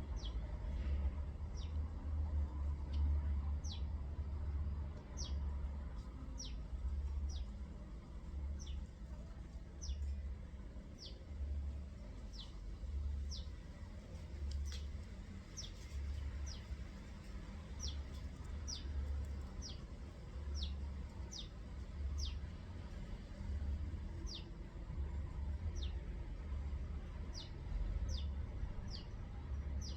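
A bird calling a short, high note that falls steeply in pitch, repeated over and over at a bit more than one a second, over a steady low rumble.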